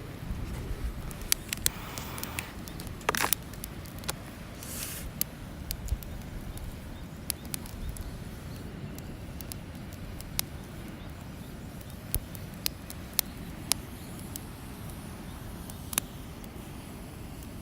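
Wood campfire crackling, with sharp irregular pops from the burning wood and a couple of short hissing bursts a few seconds in, over a steady low rumble.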